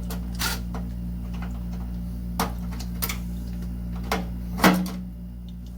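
Several sharp clicks and taps from handling the wires on an electric water heater's element terminals as they are pulled loose and pushed aside, the loudest a little before the end, over a steady low hum.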